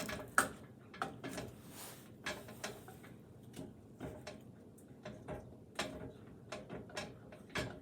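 Irregular light clicks and ticks, a few a second, from small sticks in a stone molcajete with a small fire that is barely catching.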